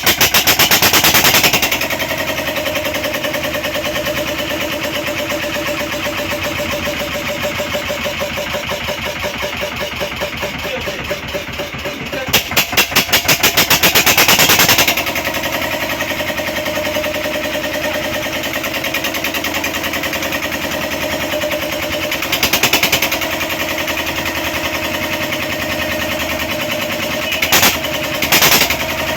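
A 10 hp diesel engine running under load testing, its exhaust a steady rapid beat of firing pulses. It runs louder and harder for a moment near the start, for a couple of seconds about halfway through, and in short spells near the end.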